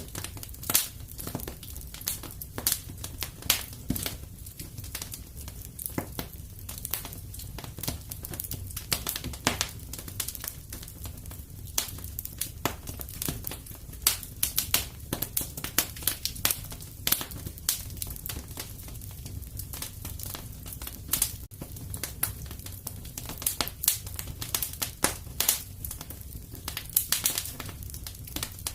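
Fireplace fire crackling: irregular sharp pops and snaps, several a second, over a low steady rumble of the flames.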